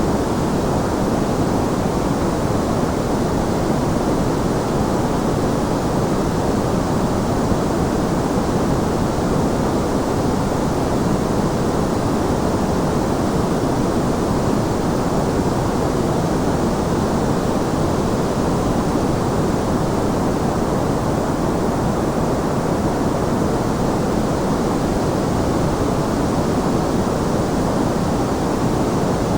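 Steady, unchanging white-noise sleep sound: an even, full hiss weighted toward the low and middle range, with little treble.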